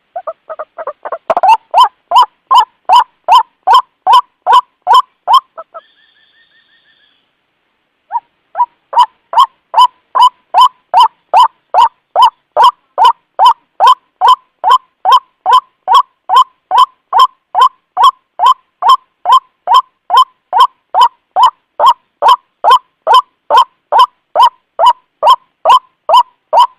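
White-breasted waterhen (ruak-ruak) giving its loud, monotonous repeated call, about two to three notes a second. The calling breaks off about six seconds in, with a faint short high tone in the pause, and starts again about two seconds later.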